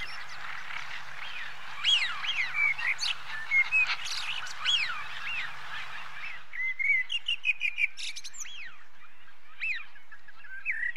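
Wild birds singing: scattered short whistled chirps that rise and fall in pitch, with a quick run of rapid chirps around the middle.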